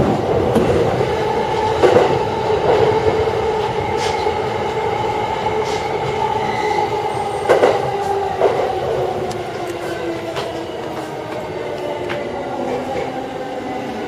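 Yamanote Line electric commuter train running slowly into a station platform, heard from on board: a steady rolling rumble with a hum that drifts slowly lower as the train slows. A few sharp clicks of the wheels over rail joints and points.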